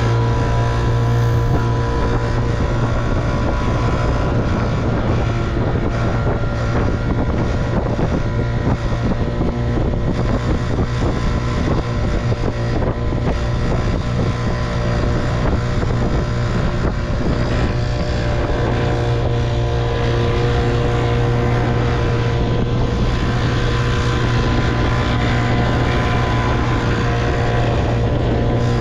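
1958 Evinrude 3 hp two-stroke outboard motor running steadily at an even speed.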